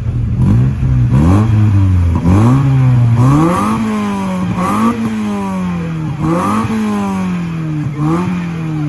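Car engine revved repeatedly: about seven quick blips of the throttle, each rising sharply in pitch and falling away slowly back toward idle.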